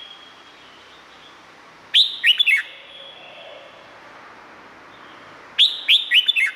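Red-whiskered bulbul singing: two short, loud phrases about three and a half seconds apart, each a quick run of several sharp, downward-sweeping notes, over a faint steady background.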